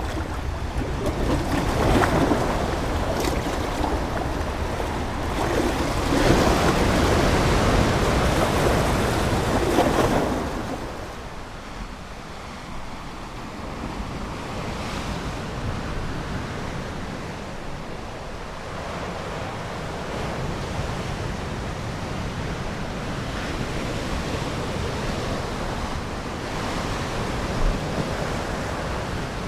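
Ocean waves breaking and washing up the shore, with a few louder surges in the first third, then a softer, steady wash.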